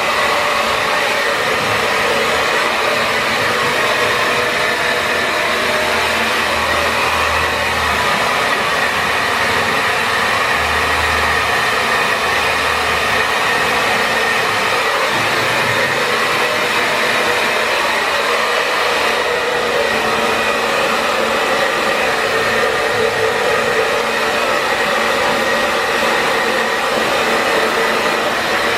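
Handheld hair dryer blowing steadily on damp hair as it is brushed dry.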